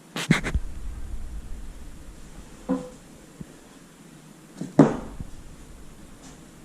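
Knocks and clanks of tools and parts being handled during front control arm bushing work: a quick cluster at the start, one a little under three seconds in, and the loudest about five seconds in, over a low rumble.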